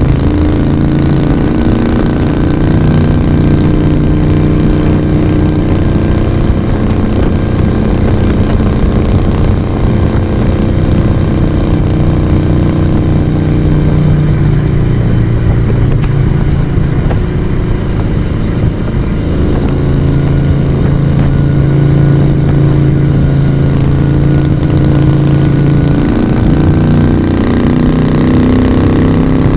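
1982 Moto Guzzi V35 café racer's air-cooled transverse V-twin engine and exhaust running under way. The engine note sags slightly at first, goes rougher around the middle, steadies, and rises in pitch near the end as the bike picks up speed.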